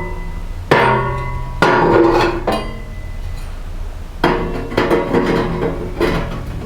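Sheet-metal stove pipe sections clanking and ringing as they are handled and pushed onto a stove: about half a dozen sharp metal knocks, each with a short ring.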